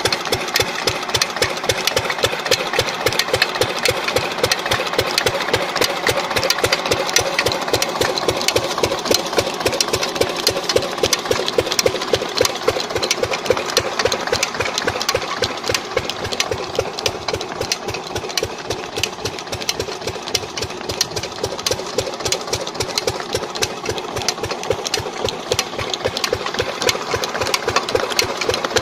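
Old Lister-type stationary diesel engine running steadily, its firing strokes giving a fast, even knocking beat.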